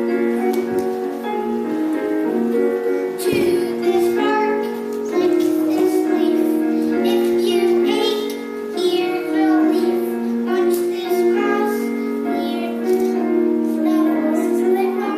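Children singing a song with a piano accompaniment, the notes held and changing in a steady melody.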